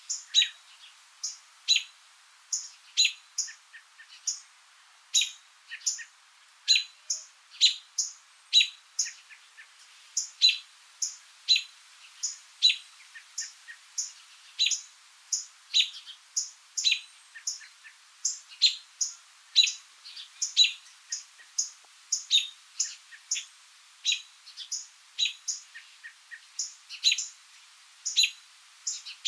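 Small bird chirping over and over: short, high, sharp chirps, about two a second, with no pause.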